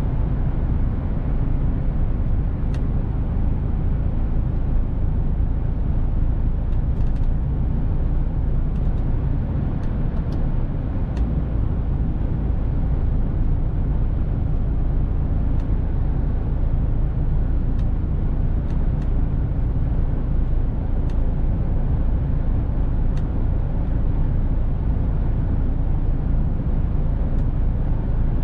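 Mercedes-Benz Actros truck on the move: a steady low rumble of diesel engine and road noise, with a few faint clicks here and there.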